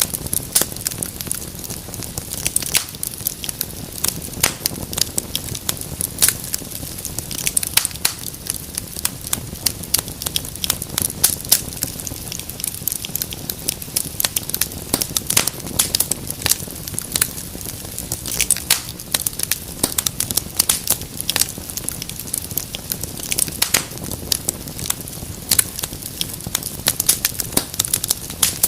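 Wood fire crackling in a fireplace: dense, irregular snaps and pops over a steady low rumble of burning.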